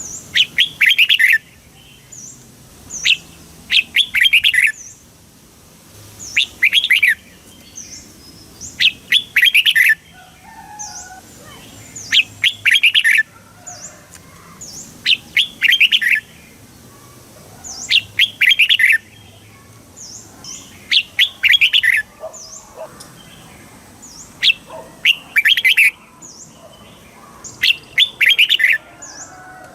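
Red-whiskered bulbul singing: a short, bright phrase of chirping notes repeated about every three seconds, some ten times.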